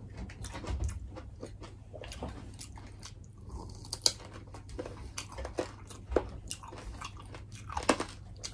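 Close-miked biting and chewing of fried lemongrass-chilli pork ribs, with irregular sharp crunches.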